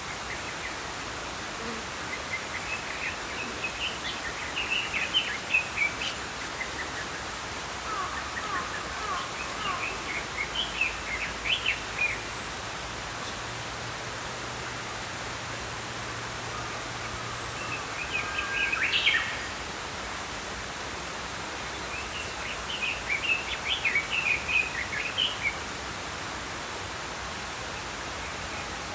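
Small songbirds twittering in several short bursts of quick chirps over the steady rush of a flowing stream.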